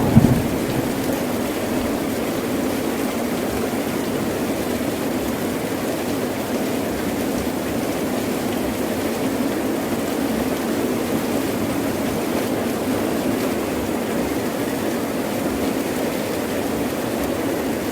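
Heavy rain falling steadily in an even downpour, with the tail of a thunder clap dying away right at the start.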